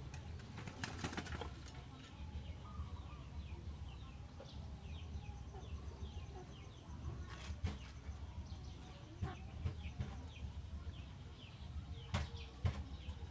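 Birds chirping in short, high, falling notes, a few times a second, with a few sharp clicks and a steady low rumble beneath.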